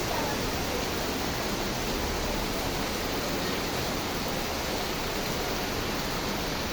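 Heavy rain falling steadily, an even downpour noise with no distinct impacts.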